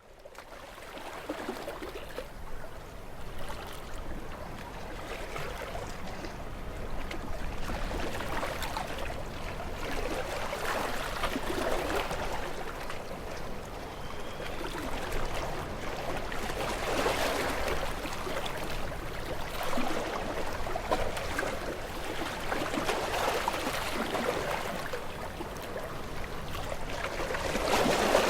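Sea waves washing against shore rocks, a steady rush of water that swells with each wave every few seconds.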